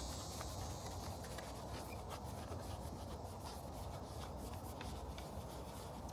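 Faint rubbing and light scraping, with many small ticks, over a steady low hum. A high, even chirring like crickets fades out about a second in.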